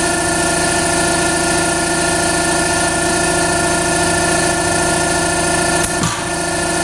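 Power tool running steadily with a pitched hum and a fast, even rattle, briefly interrupted about six seconds in.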